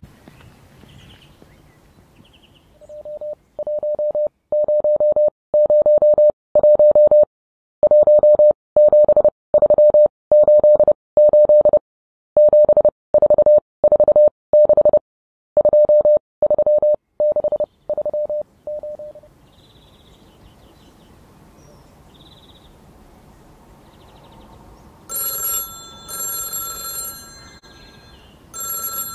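Morse code sent as a steady mid-pitched tone, keyed in irregular long and short pulses, fading in and then out again. Near the end, a telephone bell starts ringing in pairs of rings.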